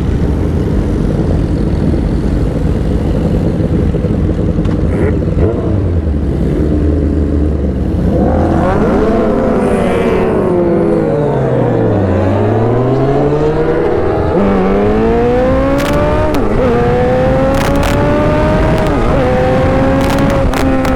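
Motorcycle engine under way with wind rush, cruising steadily at first. Then the revs fall as the bike slows and climb again as it accelerates, with a gear change about two-thirds of the way through before the pitch rises steadily once more.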